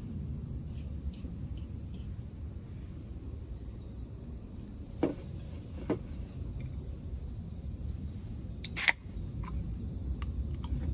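Outdoor summer ambience with a steady high insect drone over a low rumble, broken by two light knocks about halfway through and a louder sharp click near the end.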